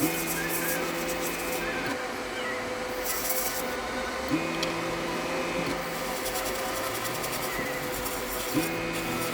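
Small airbrush compressor running with a steady hum, its pitch stepping up three times, about every four seconds, for a second or two each, while short bursts of air hiss through the airbrush as it is flushed clean of lacquer paint.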